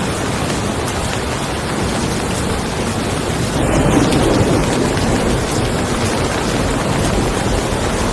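Steady rain falling on a car. A low rumble of thunder swells about three and a half seconds in and dies away slowly.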